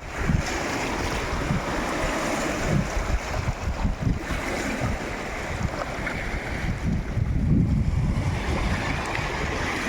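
Sea waves washing on the shore, with wind buffeting the microphone in low rumbling gusts.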